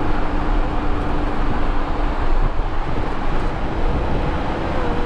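Steady low rumble of a moving vehicle, with a faint steady hum over it.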